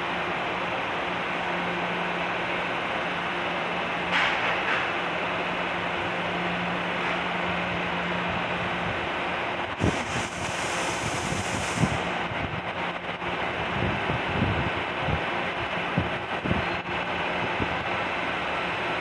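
Electric metro train and station ambience: a steady mechanical hum and rumble. About ten seconds in comes a two-second air hiss, followed by a few knocks.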